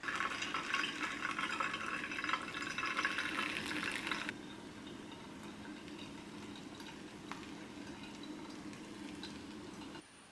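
Water running or pouring for about four seconds, stopping abruptly, followed by a quieter steady low hum.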